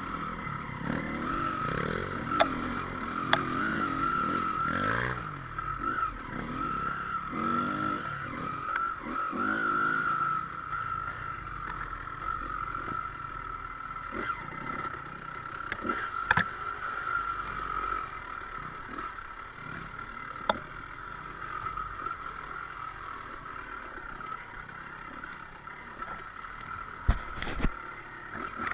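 Dirt bike engine revving up and down, with its pitch rising and falling through the first ten seconds and then running more evenly. A steady high tone runs throughout, with scattered sharp knocks and clatter, several of them close together near the end.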